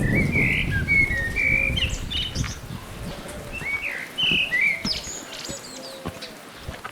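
A songbird singing two quick phrases of chirping, warbled notes, with a few higher thin notes after them. A low rumbling noise runs under the first couple of seconds.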